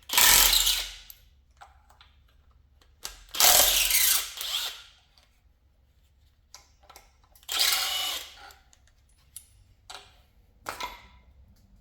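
A handheld power tool run in three bursts of about a second each, backing out the bolts of the thermostat-housing water neck, with light metallic clicks in between.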